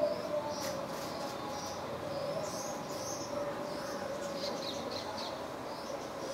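Small birds chirping in short, repeated high notes, over a steady hum, with a few faint clicks or rustles.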